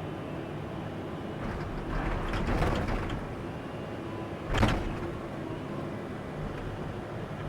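Excavator engine running steadily, with the bucket scraping and clattering through dirt and rock from about one and a half to three seconds in, and one sharp clank just before five seconds in.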